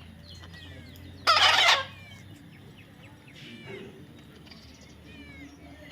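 A parrot gives one loud, harsh squawk about a second in and a fainter call a little over three seconds in. Faint, high bird chirps run throughout.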